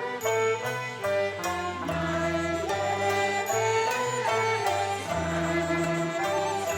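Cantonese opera accompaniment ensemble playing an instrumental passage between sung lines. Several melodic instruments move together over short, frequent strokes.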